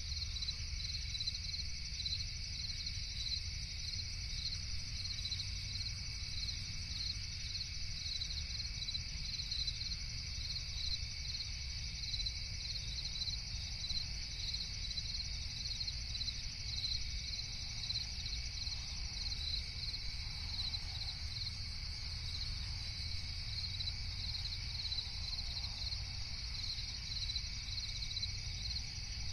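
Crickets chirping in a steady, evenly repeating chorus, over a low steady rumble.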